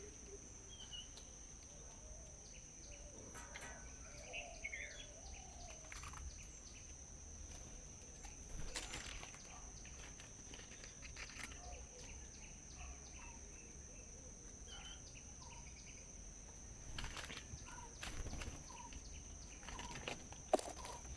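Outdoor ambience with a steady, high insect drone, a few short bird chirps, and scattered soft clicks and taps, the sharpest near the end.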